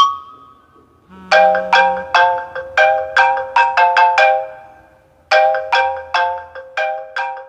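iPhone ringtone: a short tune of struck mallet notes like a xylophone or marimba, each note ringing briefly and fading, played through once starting about a second in and then repeated after a short pause.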